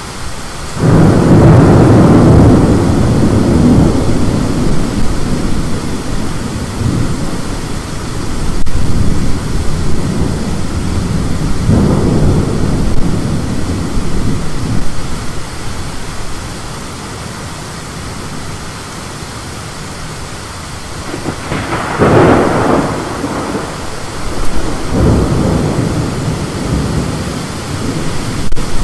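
Thunder from a lightning storm rumbling in several long rolls, the loudest starting about a second in, with others around a third of the way through, past the middle and near the end, over a steady rushing noise.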